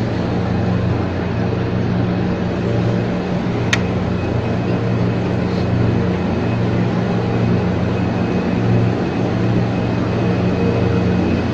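Ex-JR 203 series electric multiple unit running, a steady rumbling noise with a constant hum. A single sharp click about four seconds in.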